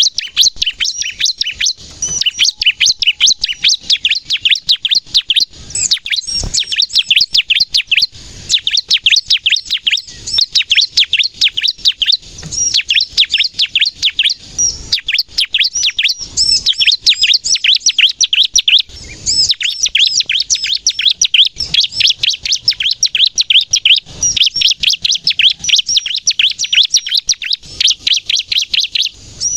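Bar-winged prinia (ciblek) singing, in long runs of sharp, quickly repeated high chirps with short breaks between them. This is the fast, forceful song the title calls gacor nembak.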